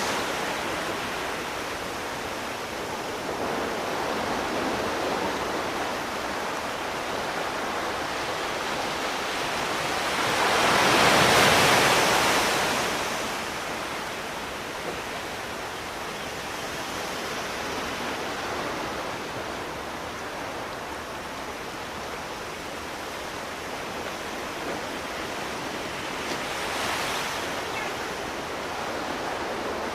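Sea waves washing onto a shore: a steady rush of surf with one loud wave breaking and swelling about a third of the way in, and a smaller one near the end.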